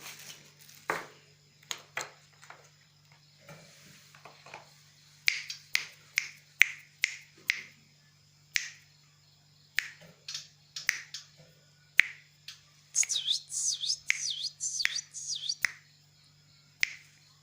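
Young ciblek gunung (a prinia) calling: sharp, clicking notes at irregular intervals, with a quick run of downward-swooping chirps about thirteen seconds in. A steady low hum runs beneath.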